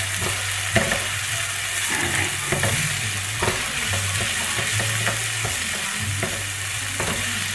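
Chopped onion and green onions sizzling in hot avocado oil in a frying pan, stirred with a spatula that scrapes across the pan about once a second.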